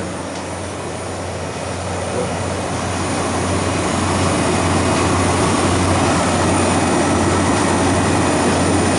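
Refrigeration condensing unit running: a steady compressor hum under the rushing air of the condenser fan. It grows a little louder over the first few seconds, then holds steady.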